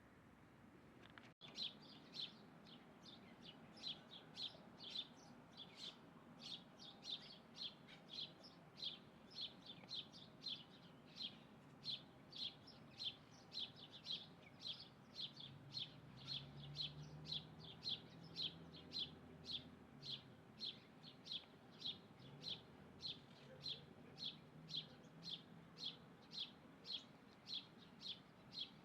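A bird repeating one short, high call note over and over, about twice a second in a steady rhythm, starting after an abrupt cut a second and a half in.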